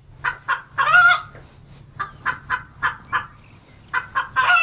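Birds clucking in a run of short calls, with a longer call about a second in and another near the end, over a steady low hum.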